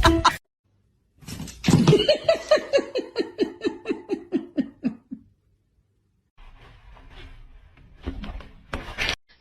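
A person laughing hard in a rapid run of "ha-ha" pulses, several a second, sliding down in pitch and fading over about four seconds. After a pause there is faint rustling and a short louder sound near the end.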